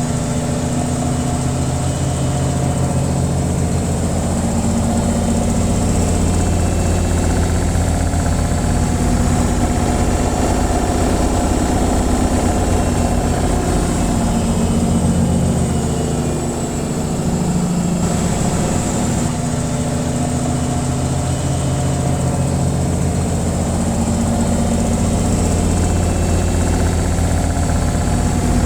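Washing machine on its spin cycle: a steady mechanical hum and vibration whose pitch drifts slightly, dipping a little in level about two-thirds of the way through.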